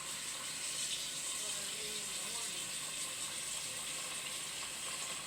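Kitchen tap running steadily into a sink, an even watery hiss.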